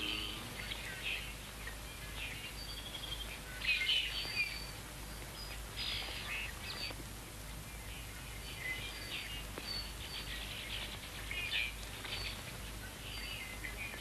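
Small birds chirping: short, high calls scattered throughout, a few a little louder, over a faint steady hiss.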